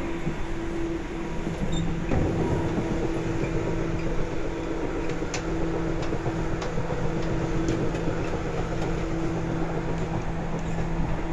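Running sound of a Seibu 2000 series electric train heard from inside the car at steady speed: a steady hum from the drive under a dense wheel-on-rail rumble. There is a sharper knock about two seconds in and a few light clicks after it.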